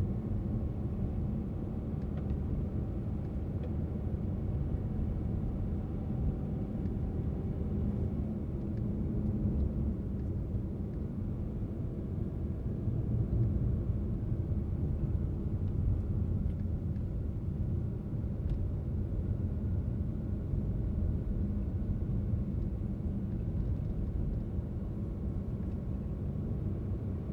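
Steady low rumble of a car driving: engine and tyre-on-road noise, with a few faint ticks.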